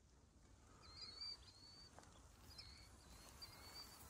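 Faint bird calls: a series of short, high chirps repeating every half second or so over a low, quiet background rumble.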